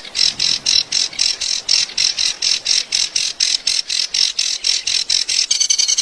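A bird repeating a high, sharp call in a fast, even series of about five notes a second.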